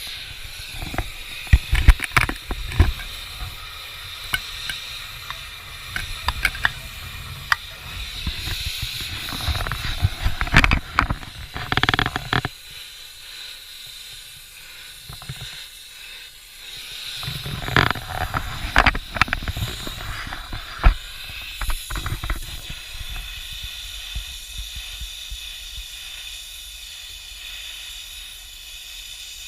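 Scattered knocks and clanks of metal and tools against an air-conditioner condenser as its compressor is worked loose, with a busier clatter about ten seconds in and again near twenty seconds. A steady hiss runs underneath.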